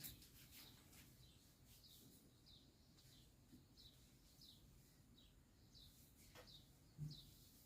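A bird calling faintly, one short falling chirp about every two-thirds of a second, over a quiet background, with a single soft thump near the end.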